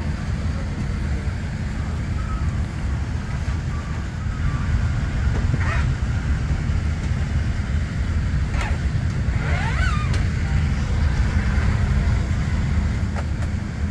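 Steady low rumble of airliner cabin noise inside a Boeing 787-9, with a few faint clicks and a brief faint squeak about ten seconds in.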